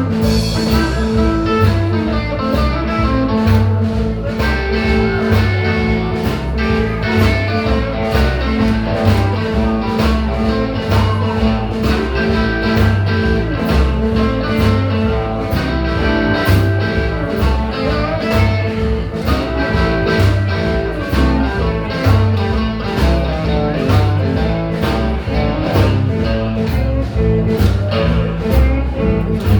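Live blues band playing an instrumental stretch without vocals: guitar to the fore over bass and a steady drum beat.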